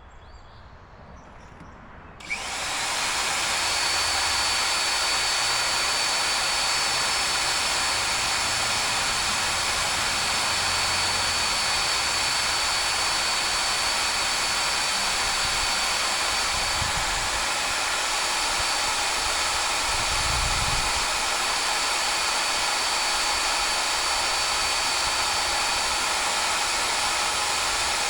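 Power drill starting about two seconds in and running steadily under load with a high, even whine, boring through a seized hydraulic cylinder pin with a cobalt, tungsten-carbide-tipped bit.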